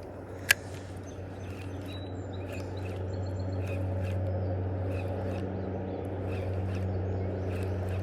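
Spinning fishing reel: a sharp click about half a second in, then the reel being cranked, giving a steady low whirr with a quick, regular ticking. The whirr grows louder partway through as the lure is wound in.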